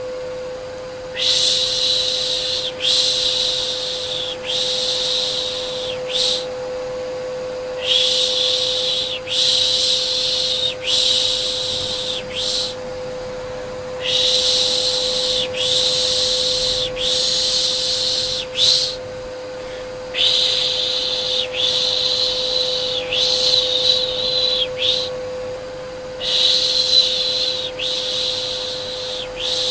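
Vacuum cleaner running with a steady hum. Over it, rhythmic baby-soothing shushing: runs of four or five long 'shh' sounds, each about a second and a half, with short pauses between the runs.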